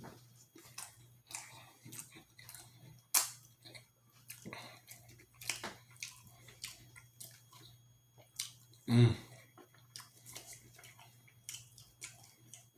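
Close-miked chewing and wet mouth sounds: irregular soft clicks and smacks while eating, with a sharper click about three seconds in and a louder, briefly pitched mouth sound about nine seconds in, over a steady low electrical hum.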